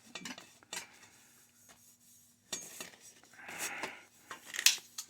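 Small metal plumbing parts and tools clinking and knocking as they are handled and set down, with a few short rustles in between. The sharpest clink comes near the end, over a faint steady hum.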